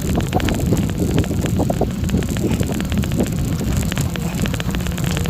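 Wind rumbling on the microphone, with a dense, steady run of small clicks and rattles over it.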